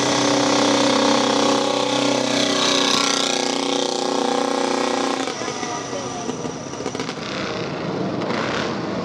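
Motorcycle engine running at a steady pitch, which breaks off abruptly about five seconds in; a fainter, rougher engine sound follows.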